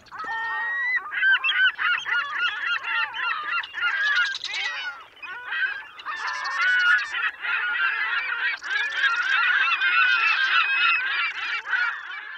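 A large flock of birds calling all at once: many overlapping short, honking calls in a dense, continuous chorus.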